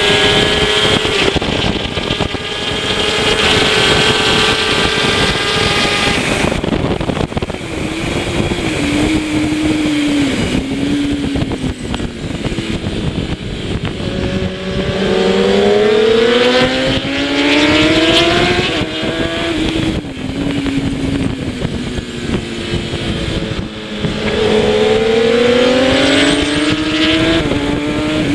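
Kawasaki ZX-10R superbike's 1000 cc inline-four engine at race speed, with wind rush: held high for several seconds, easing lower, then climbing hard in pitch twice as the bike accelerates out of corners.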